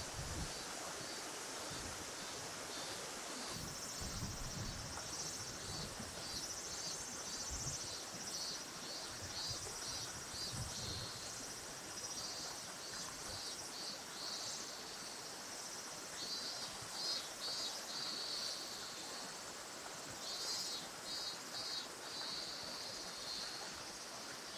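Insects chirping in rapid, evenly repeated pulses over the steady rush of river water; the chirping comes in denser clusters in the second half.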